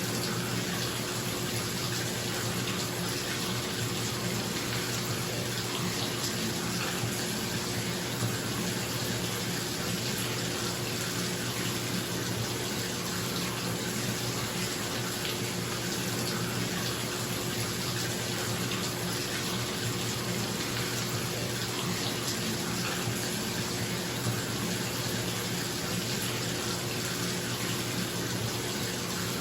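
Bathtub tap running steadily into a filling tub, an even rush of water, with a bathroom exhaust fan humming a low, steady tone underneath.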